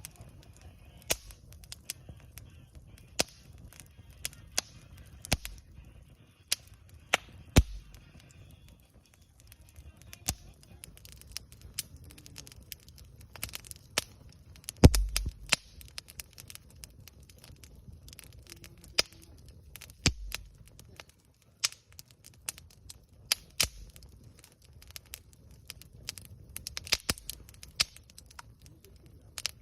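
Wood campfire crackling, with irregular sharp pops and snaps, the loudest a little past halfway.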